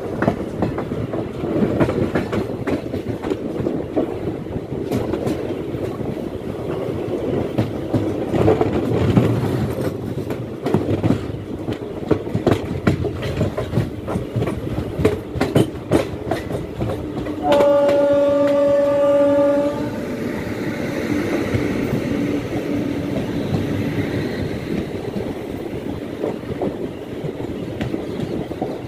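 Indian Railways passenger express train running at speed, a steady rumble with the wheels clicking over rail joints. A little past halfway a train horn blows once for about two seconds.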